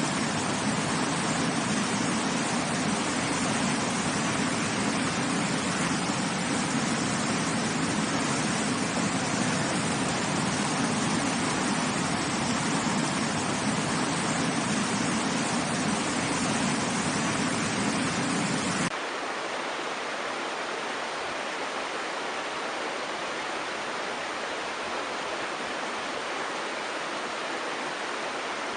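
Steady rushing of water over rocks, a continuous noise with a deep rumble underneath. About two-thirds of the way through it cuts abruptly to a quieter, thinner hiss with the low rumble gone.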